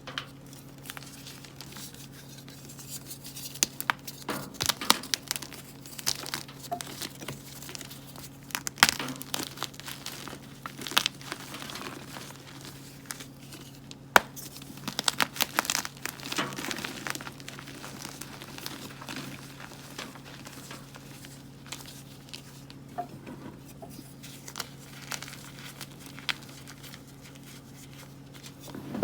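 Blocks of gym chalk being crushed and crumbled, giving irregular clusters of crisp crunches and crackles with quieter pauses between. A steady low hum runs underneath.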